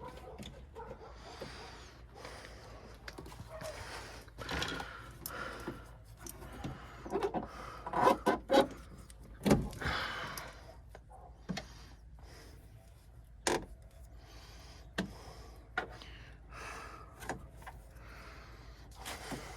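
Clicks, rattles and knocks of a vehicle door handle and its latch parts being handled and fitted back into the door, with a cluster of louder knocks about eight to ten seconds in.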